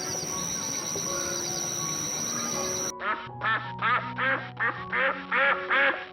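A duck quacking in a rapid run of short calls, about three to four a second, starting suddenly about halfway through. Before that there is a steady hiss with a thin high tone.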